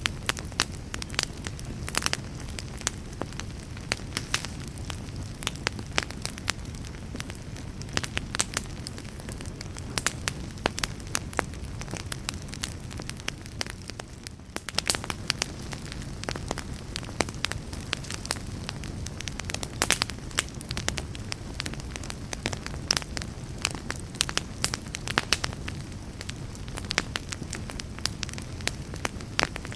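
Wood fire burning steadily, with a low rumble of the flames and frequent sharp, irregular crackles and pops.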